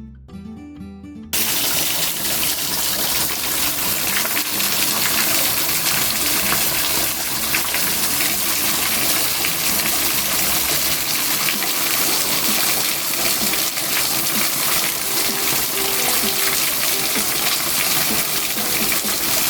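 Acoustic guitar music, then about a second in a loud, steady rush of flowing water cuts in, with the music faint underneath.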